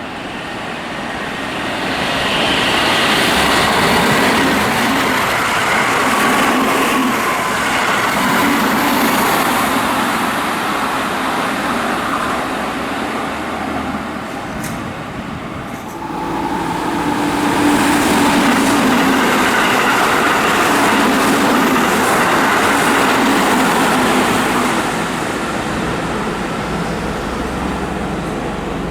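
Keihan electric trains passing close by at speed: a rushing clatter of wheels on rail mixed with a faint motor whine. The noise builds, dips a little past the middle, then swells again and fades near the end.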